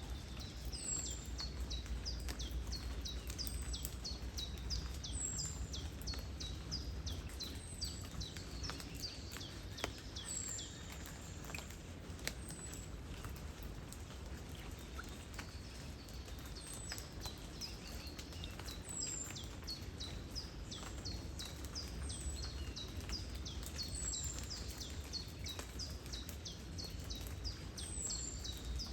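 Small birds calling in quick runs of short, high, falling chirps, the runs repeating every few seconds. Underneath are a steady low rumble and faint scattered ticks of light rain.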